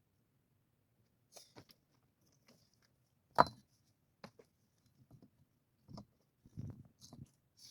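Scattered knocks and light scrapes of hands-on building work, materials being handled and set down, with one sharp, much louder knock about three and a half seconds in.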